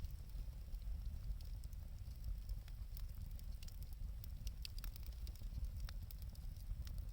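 Wood fire burning, with scattered faint crackles and pops over a steady low rumble.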